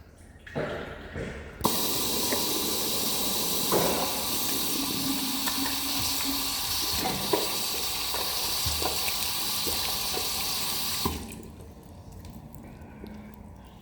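Water running hard from a tap or spout, starting suddenly about two seconds in and cutting off after about nine seconds, with a few knocks during the flow.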